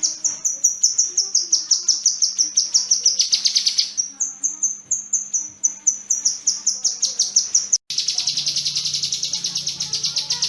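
A kinoi bird singing long rapid runs of short, high, sharp chirps, about four to six a second. After a brief break about eight seconds in, a faster run follows.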